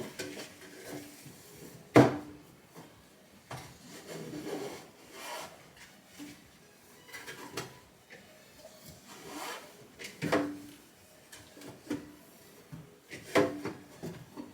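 Cloth wiping and rubbing the inside of a refrigerator, with scattered knocks and clunks of its parts being handled, the loudest about two seconds in.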